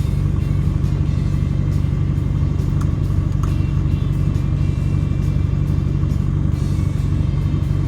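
A steady, unchanging low engine drone, with music.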